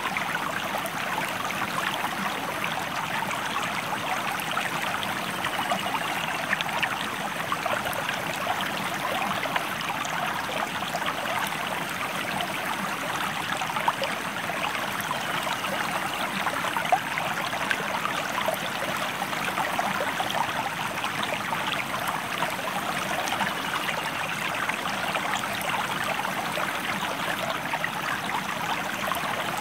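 River water flowing steadily, an even rushing and babbling with small splashes throughout.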